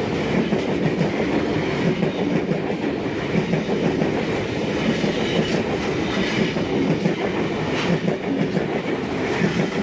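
Eight-car V set double-deck electric intercity train passing through the station without stopping: a steady run of wheel-and-rail noise at an even level, with a few faint clicks.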